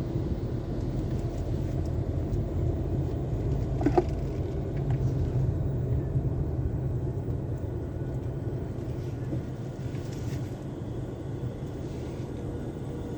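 Car running at low speed, a steady low rumble, with one brief squeak about four seconds in.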